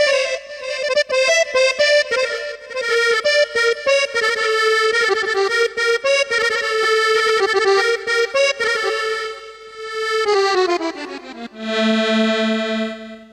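Korg Triton keyboard with MOSS board playing a solo Arabic folk melody on a reedy wind-instrument patch. It plays fast ornamented runs, then bends down about ten seconds in to a low held note that stops at the very end.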